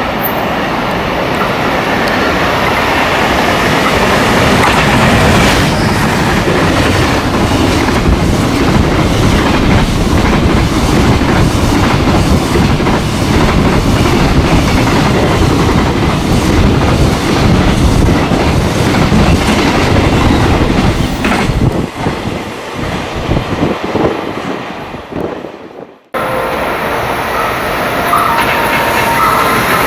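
A train running along the track past the platform, its wheels clacking rapidly over rail joints, with some wheel squeal. The sound dies away over several seconds, cuts off abruptly, and is followed by another steady train rumble.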